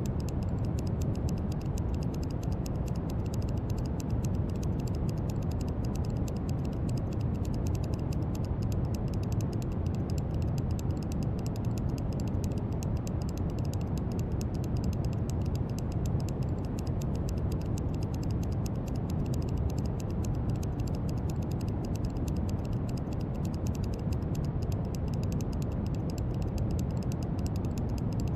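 Brown noise: a steady, deep rushing hiss with most of its weight in the low end. Faint, fine clicking sits in the highs.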